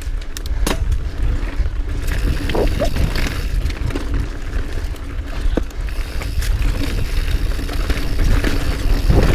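Mountain bike rattling and clattering down a rough, rutted trail, with sharp knocks from the wheels hitting bumps, under heavy wind buffeting the action-camera microphone.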